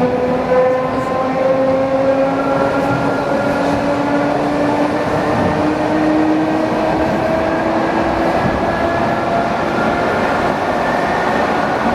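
ED4M electric train running, its traction motors whining with several tones that rise slowly in pitch as the train picks up speed, over a steady rumble of wheels on track.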